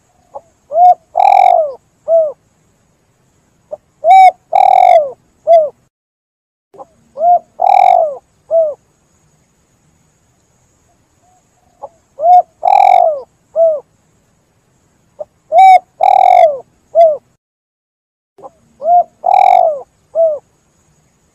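Spotted dove (tekukur) cooing: six phrases of three or four coos each, repeated every few seconds, with a longer pause midway.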